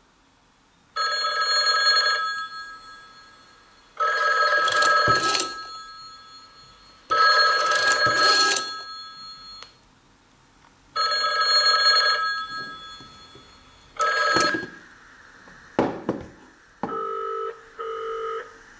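An old black rotary telephone rings in five bursts about three seconds apart; the last ring is cut short, and rattling noise lies over two of the rings. About sixteen seconds in, the handset clatters off the cradle, and a dial tone follows in two short beeps.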